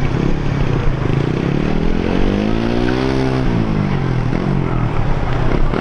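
A motor engine running close by, a steady low hum with a sweep up and back down in pitch around the middle.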